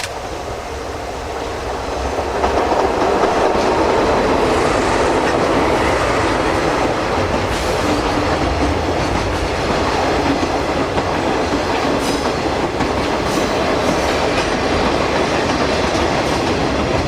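DE10 diesel-hydraulic locomotive hauling a freight train past. The rumble of the engine and the rolling wagons builds over the first couple of seconds, then stays loud and steady, with a few sharp clicks of wheels over the rail joints.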